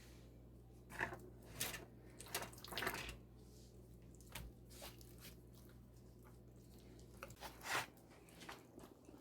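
A few short rustling, scraping handling sounds, bunched in the first three seconds with one more near the end, over a faint steady low hum.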